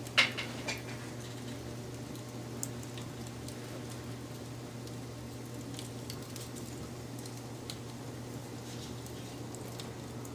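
Wood fire burning, with scattered crackles over a steady low rumble and one sharp pop shortly after the start, followed by a few smaller snaps.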